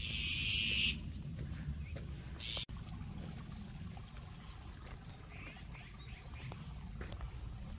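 Bird calls: a loud harsh call in the first second, a shorter one at about two and a half seconds, and faint chirps later, over a low steady rumble.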